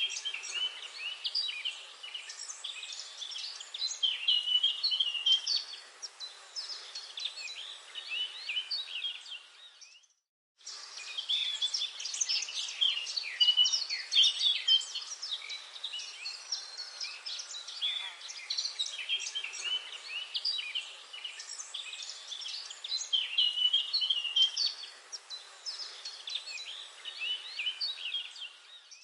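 Many small birds chirping and singing together in a dense, continuous chorus of short high calls and trills. It cuts to silence for about half a second about ten seconds in, then resumes.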